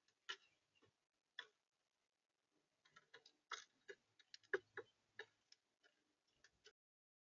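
Irregular sharp taps and clicks, a few a second, of birds pecking at seed on a bird feeder close to the microphone, stopping abruptly near the end.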